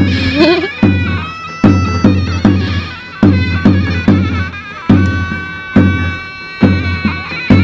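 Turkish davul and zurna playing a folk dance tune: a shrill reed melody held over heavy drum strokes landing a little under once a second.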